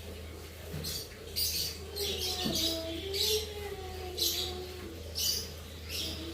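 Lovebirds chirping: a run of short, shrill chirps beginning about a second in and repeating every half-second or so, over a steady low hum.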